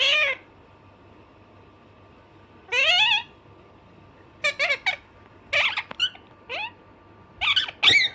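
Alexandrine parakeet calling: a string of short, high, wavering squawks in about six bursts, some coming as quick runs of two or three notes.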